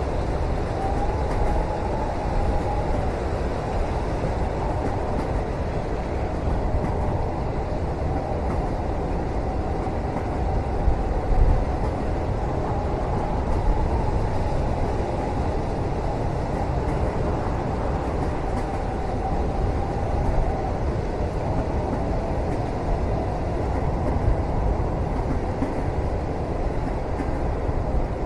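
Steady rumble of a moving train heard from inside a passenger cabin, with a faint whine that wavers in pitch and fades in and out.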